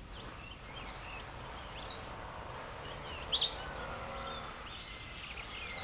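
Birds chirping here and there over steady outdoor background noise, with the sharpest call about three seconds in.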